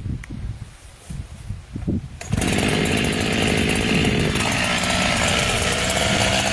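A chainsaw cuts in suddenly about two seconds in and runs loudly and steadily. Before it, a few soft low knocks.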